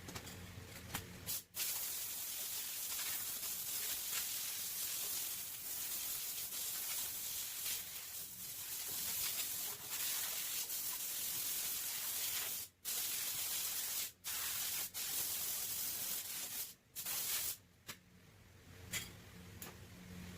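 Compressed-air paint spray gun hissing in long passes, with several short breaks where the spraying stops for a moment.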